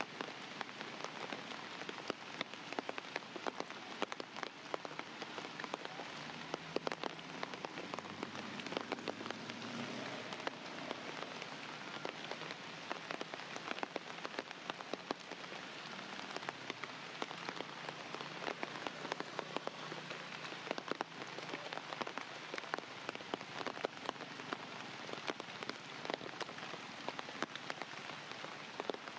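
Steady rain falling, with many single drops landing close by as sharp ticks.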